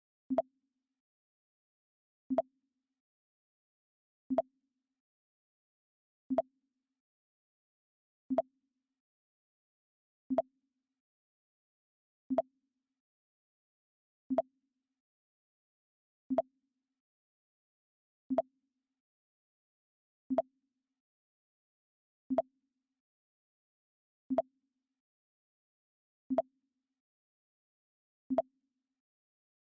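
The Mac OS X 'Pong' alert sound: a short, low electronic blip, repeated every two seconds with silence between.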